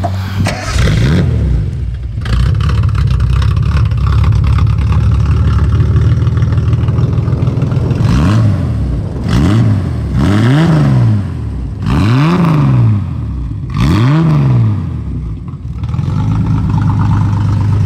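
1973 Datsun 240Z's straight-six engine running at idle with a quick blip of the throttle about a second in, then revved hard five times in quick succession in the second half, each rev rising and falling back, before it settles to idle near the end.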